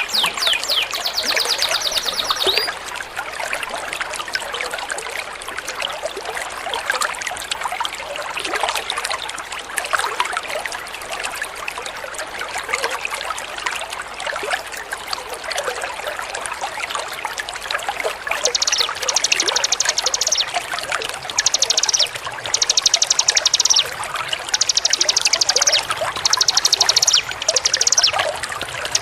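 Steady trickling, running water. A songbird's rapid high trill ends about two and a half seconds in. From about two-thirds of the way through, short bursts of rapid high trilling return again and again over the water.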